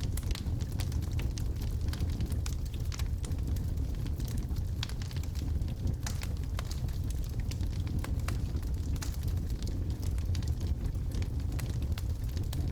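Wood fire of burning logs crackling: frequent irregular sharp pops and snaps over a steady low rumble of the flames.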